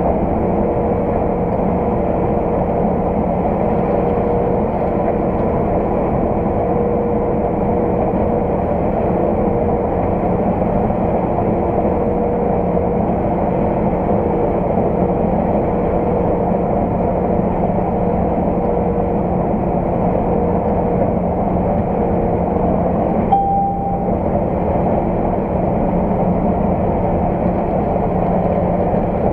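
Heavy farm machinery engine running steadily under harvest work, a constant drone. About three-quarters of the way through, a short beep sounds once.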